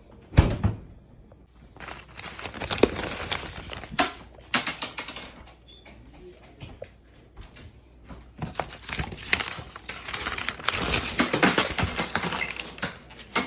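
Household cleaning and handling noises: a sharp knock about half a second in, then two long stretches of dense crinkling, rustling and light clicking and clattering, with a quieter gap between them.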